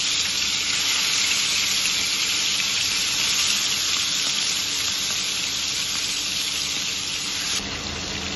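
Marinated chicken pieces frying in hot oil in a kadhai: a steady, loud sizzle. It drops suddenly to a softer sizzle about a second before the end.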